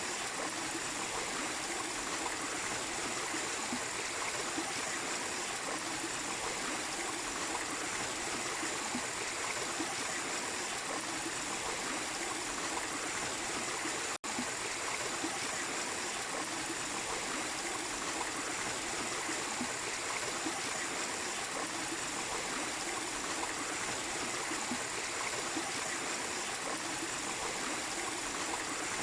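Small waterfall running steadily, an even rush of falling and flowing water, with a split-second gap about halfway through.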